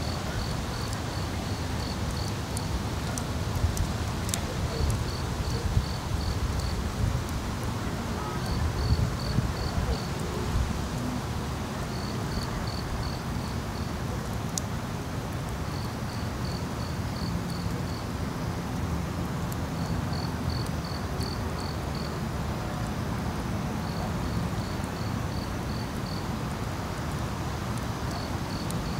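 An insect chirping: runs of about six to eight short, high pulses, a few per second, repeating roughly every four seconds. Under it is a steady low rumble and a few faint clicks.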